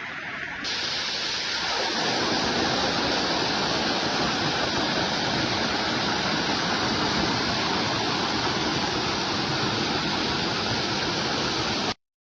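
Waterfall: a steady rush of falling water that grows fuller and louder over the first two seconds, then cuts off suddenly near the end.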